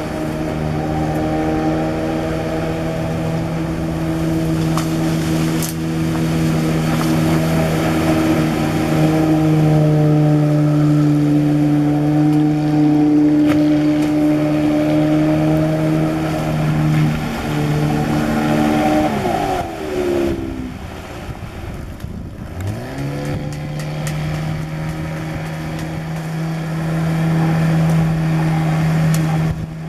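Motorboat engine running hard at a steady high pitch, driving the boat with its bow raised. About 19 seconds in the revs drop away sharply, then climb back a few seconds later and hold steady again.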